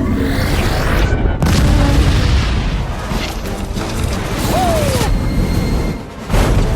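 Action-film soundtrack of an aerial battle: film score under heavy booms and impacts, with a short falling whistle about two-thirds of the way through. Near the end the sound drops away briefly, then comes back with a sudden loud hit.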